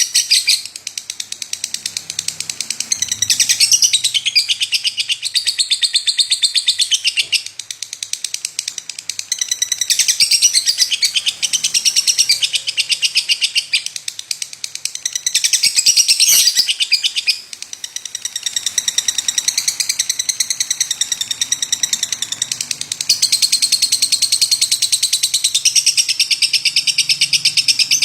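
Lovebird singing a long, rapid chattering song of high-pitched notes packed close together, with only brief dips.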